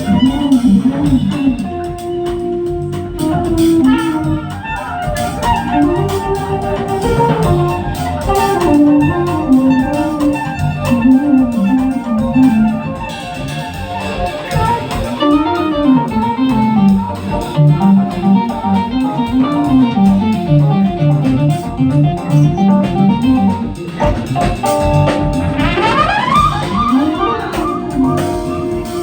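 Instrumental jazz played by a band, a melody line moving over a steady, pulsing bass.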